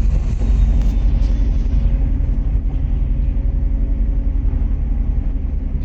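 MAZ-103 city bus running, heard from on board: a steady low rumble of engine and road.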